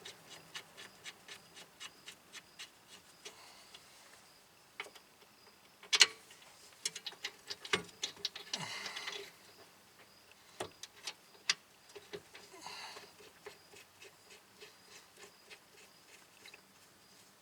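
Hand ratchet clicking as brake caliper bolts are run in. Slow, even clicks come at first, then scattered clicks and short quick runs, with one sharp metallic clack about six seconds in.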